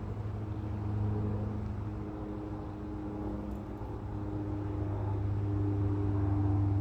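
Beech C99 airliner's twin Pratt & Whitney PT6A turboprop engines and propellers on final approach: a steady low drone with a few held pitches, growing louder toward the end.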